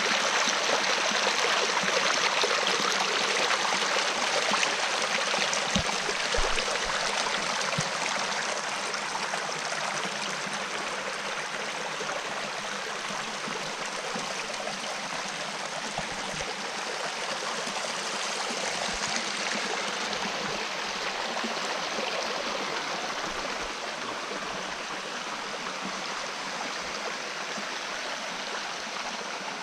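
Stream water running over rocks, a steady rush that eases slightly after about eight seconds, with a few soft low knocks.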